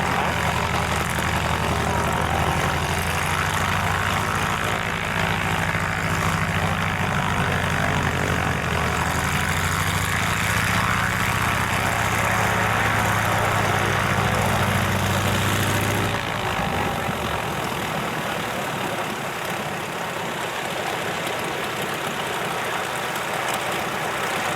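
Piston engine of a propeller aircraft running at a steady idle over constant wind-like hiss. The engine note stops abruptly about two-thirds of the way through, leaving only the hiss.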